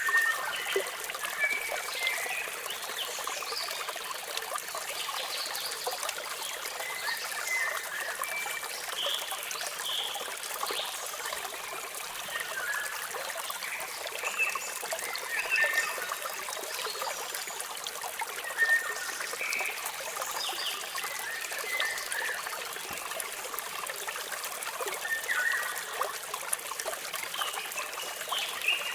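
Flowing water trickling and splashing steadily, with small birds chirping and whistling on and off throughout.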